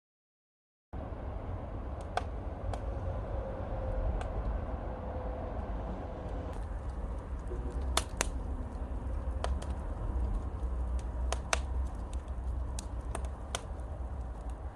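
Wood fire crackling in a fireplace: scattered sharp pops over a steady low rumble, starting about a second in.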